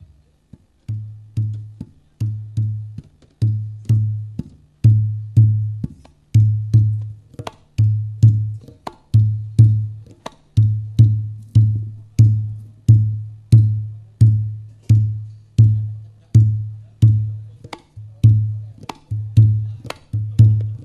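Percussion-led music played loud through a large PA sound system under test: deep booming drum hits about twice a second, each with a sharp click on top and a short decay.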